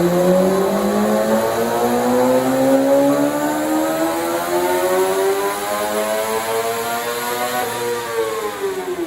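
Vehicle engine pulling under acceleration, its pitch climbing steadily for about eight seconds, then dropping near the end as it eases off.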